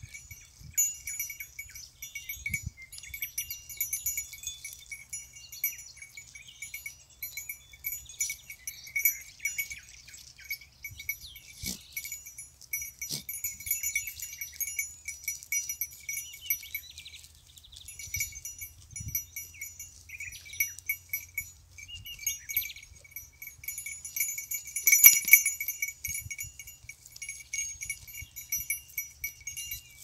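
Small metal bells worn by grazing goats clinking irregularly as the animals move and feed. The ringing is loudest about 25 seconds in.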